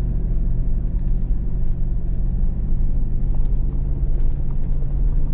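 Hummer H2's engine and drivetrain running at crawling speed on a rough trail, heard inside the cabin as a steady low drone, with a few faint ticks over it.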